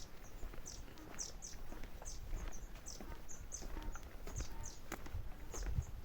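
Birds chirping: short, high, falling chirps repeating irregularly, a few each second, over a low outdoor rumble with occasional soft knocks.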